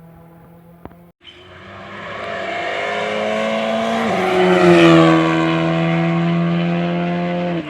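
Rally car on a special stage, engine at full throttle, growing louder as it approaches. It passes close at about four seconds with its pitch dropping, holds a steady high note, and cuts off abruptly near the end.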